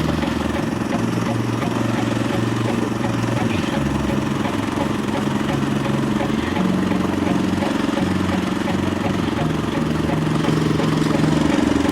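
Walk-behind tractor engine running steadily as the machine drives along, its pitch shifting a little up and down every few seconds.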